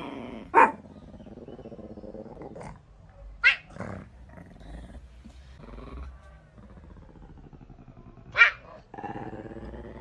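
A dog barking three times, with growling between the barks.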